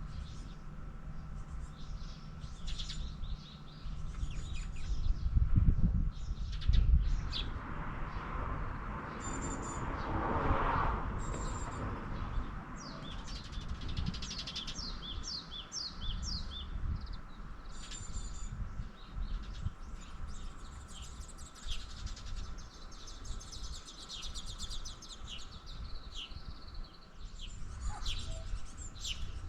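Several small birds chirping and trilling in quick, overlapping calls. About five seconds in a low rumble and then a rushing noise swell and fade over several seconds.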